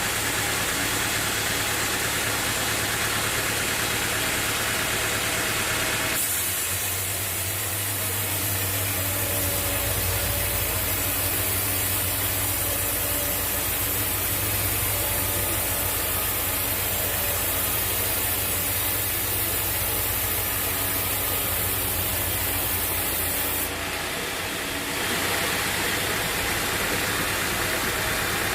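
A sawmill's engine running steadily. The sound changes abruptly about six seconds in and again near the end.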